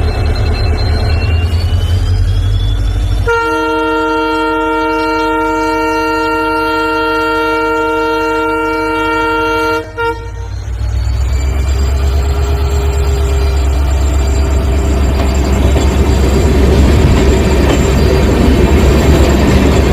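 Diesel locomotive engine running with a rising whine, then a long steady horn blast of about six seconds that cuts off sharply. The engine then comes back in and builds louder with a rising whine, as when throttling up to pull away.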